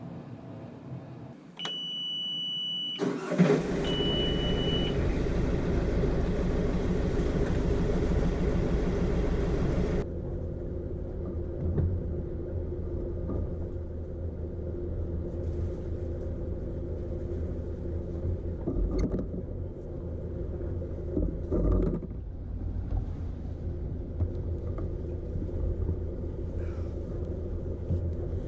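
A sailboat's inboard diesel engine being started. An engine-panel warning beep sounds twice, the engine catches about three and a half seconds in, and it settles into steady running. About ten seconds in, the sound drops to a lower, duller level, and the engine runs on with a few knocks.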